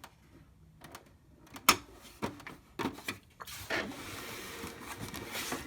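HP LaserJet 3330 multifunction printer starting its mechanism: a few sharp clicks and knocks, then a steady whir as its motors begin running, set off by closing its door.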